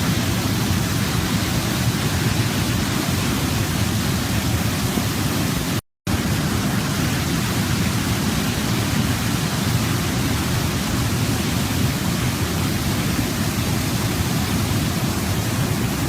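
Waterfall rushing in a steady, even roar of water, with deep low rumble. The sound cuts out completely for a split second about six seconds in, then resumes unchanged.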